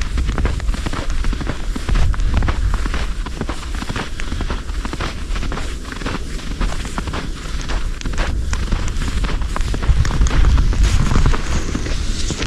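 Storm wind buffeting the microphone in a heavy, gusting low rumble, with footsteps crunching through snow.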